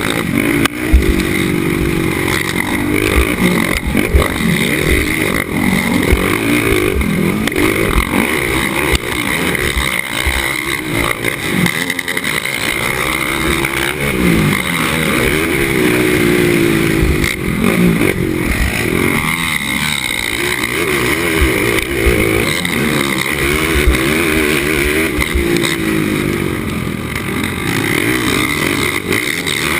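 Racing ATV engine revving up and falling off again and again as the throttle opens and closes, with many short knocks and rattles over the rough track.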